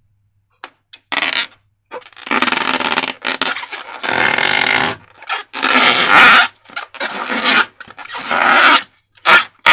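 Rubber balloons and slime being handled: a run of about a dozen short, noisy rubbing and scraping sounds, each lasting up to a second, with short gaps between.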